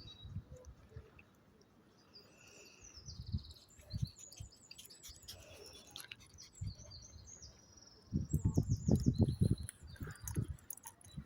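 Small songbirds chirping and singing: many short, high chirps and trills. About eight seconds in, a stretch of low rumbling thumps comes in and is louder than the birds.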